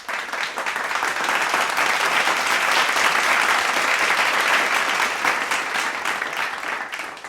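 Applause: many hands clapping in a dense patter that swells over the first couple of seconds and fades away near the end.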